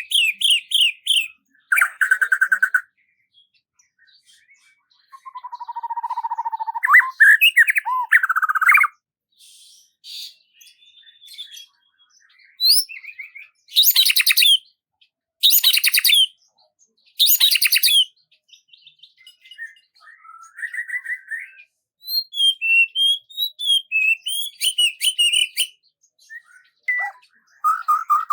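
Birdsong in separate, varied phrases with pauses between: warbled trills, then three loud harsh buzzy phrases about a second and a half apart, then a quick run of short chirps.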